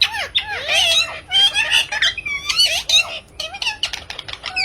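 Parrot giving a rapid, unbroken string of squawks and whistled calls, each short call sweeping up and down in pitch.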